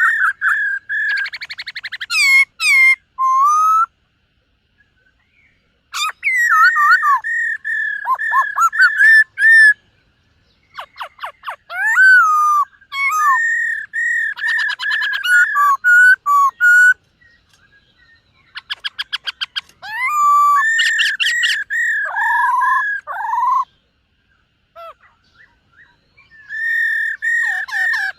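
Black-throated laughingthrush singing: bouts of loud, clear whistled notes mixed with fast trills, about five phrases separated by short silences.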